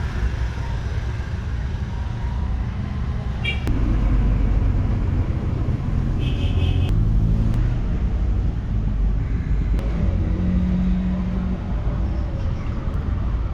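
Low, steady engine rumble of a motor vehicle, getting louder about four seconds in, with a brief high-pitched beep partway through.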